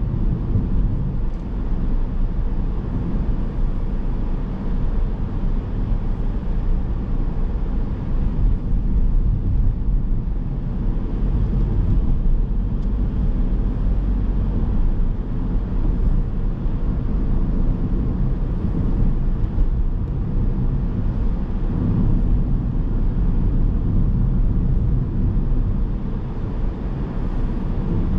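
A car driving on city roads: a steady low rumble of tyre and road noise with engine sound.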